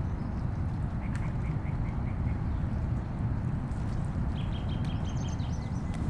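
Steady low rush of wind and fast river water, with two runs of rapid short bird calls, one about a second in and a longer one past four seconds in.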